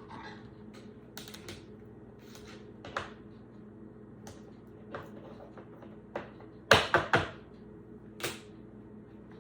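Trading cards and plastic card sleeves being handled on a tabletop: scattered light clicks and taps, with a louder quick cluster of clicks about seven seconds in.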